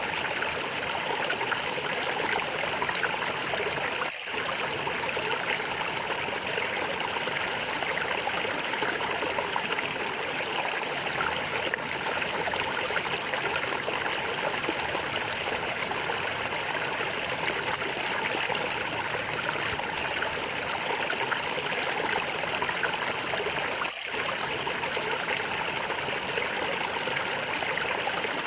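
Stream water gurgling and trickling steadily, dipping very briefly twice.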